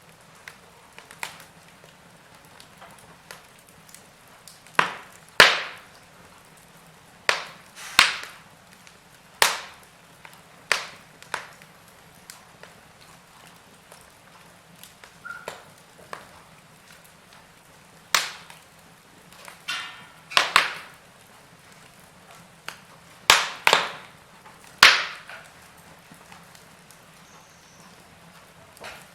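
Wood fire burning in a fireplace: logs crackling with irregular sharp pops and snaps, some loud, over a faint steady hiss.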